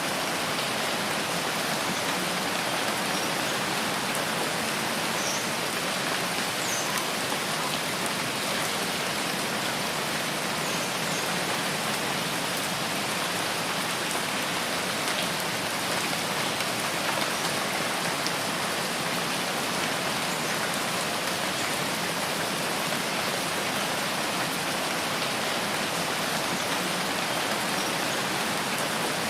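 Steady rainfall in a rain forest, an even hiss of rain on foliage and ground that holds level throughout. A few faint, brief high chirps sound over it now and then.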